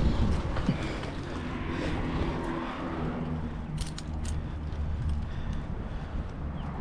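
Steady low engine hum, with a few sharp metallic clicks of climbing hardware a little past the middle as a tree climber rigs a rope redirect.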